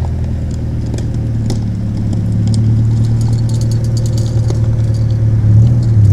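Lowered Honda EK Civic's engine running steadily with a deep exhaust drone and light clicks over it, swelling a little near the end.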